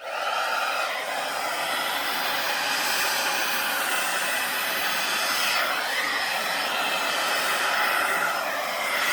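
Conair Infinity Pro travel hair dryer switched on and blowing steadily, a loud, even rush of air, used to push and spread wet acrylic paint across a canvas.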